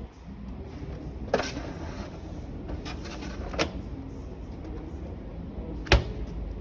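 Washing machine doors being handled, giving three sharp knocks of a door clicking or thudding against the machine, the loudest near the end, over a steady low hum.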